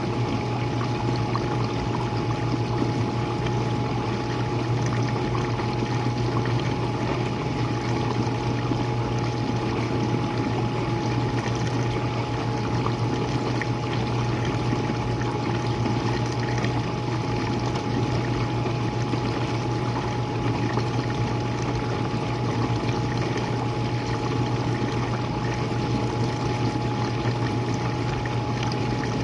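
Jenn-Air dishwasher running, heard close to its base: a steady low hum from the pump motor under the constant rush and splash of water spraying inside the tub.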